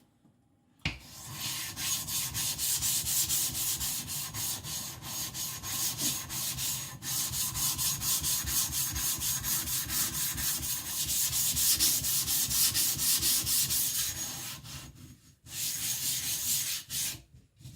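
Wet Shapton Glass 220 whetstone being lapped flat: a gritty rubbing from quick back-and-forth strokes, with brief pauses partway through.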